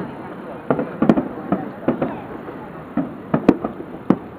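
Aerial fireworks shells bursting: about ten sharp bangs at irregular intervals, the loudest about a second in and about three and a half seconds in.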